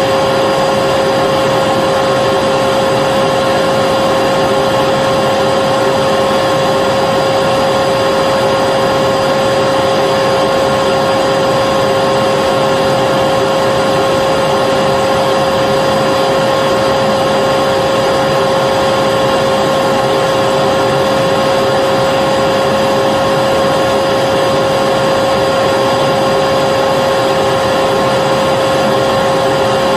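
Vacuum cleaner motor running steadily: a loud, unchanging rush of air with a constant whine.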